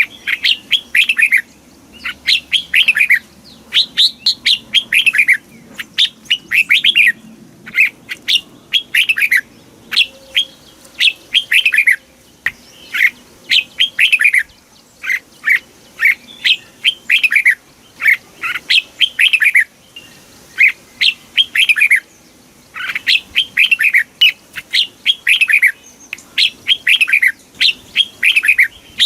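Red-whiskered bulbul singing: short, loud phrases of quick falling notes, repeated one after another with brief pauses between bursts.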